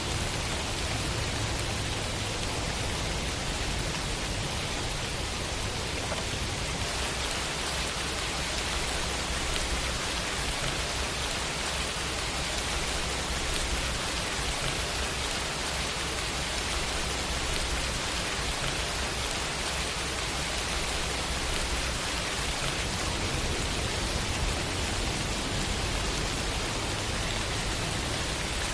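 Steady rain falling, an even hiss with a low rumble underneath that shifts now and then.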